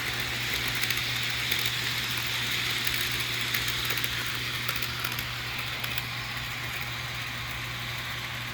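HO scale Rapido FP9A model locomotive's DCC sound decoder playing a steady diesel engine sound through its small onboard speaker as the model runs. A few light clicks come in the first few seconds.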